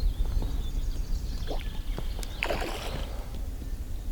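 Water splashing and sloshing at the side of an inflatable boat as a hooked carp is played in on the rod, with one louder splash about two and a half seconds in, over a steady low rumble.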